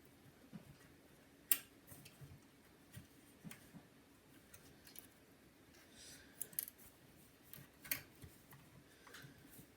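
Scattered light clicks and taps of a MacBook's logic board and small parts being handled and seated into the laptop's plastic case, with a sharper click about a second and a half in and another near eight seconds.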